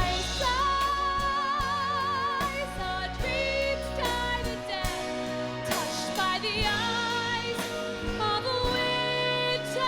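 A female solo singer holds long notes with a wide vibrato, over band accompaniment with a steady bass line and sustained chords, in a musical-theatre ballad.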